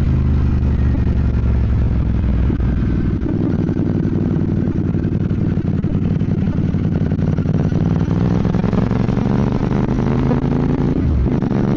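Royal Enfield Bear 650's 648 cc parallel-twin engine running under way. Its revs climb steadily over the last few seconds and dip briefly near the end.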